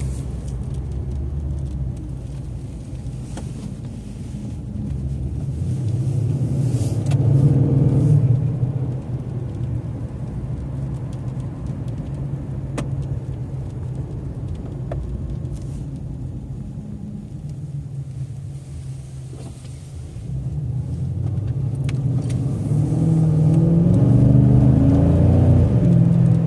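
Exhaust of a 2012 Infiniti M56's 5.6-litre V8, heard from inside the cabin while cruising at low speed. It has a 2-inch X-pipe and straight pipes in place of the Y-pipe and resonators, running to the stock mufflers. A steady low drone swells twice as the car accelerates: once about five seconds in, then again from about twenty seconds in.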